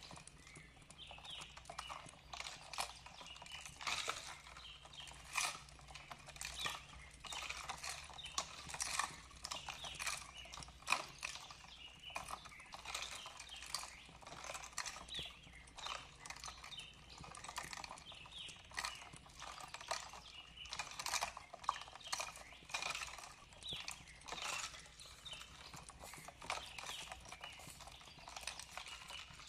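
Wood fire crackling in a fireplace: a dense, irregular run of sharp pops and snaps.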